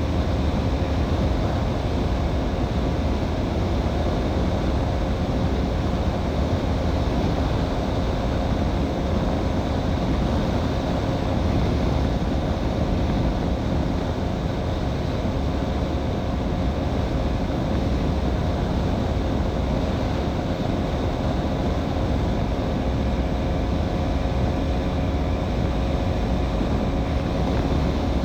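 KTM Duke 200 BS6's single-cylinder engine running at steady high revs, near its top speed on the highway, with heavy wind rush on the microphone.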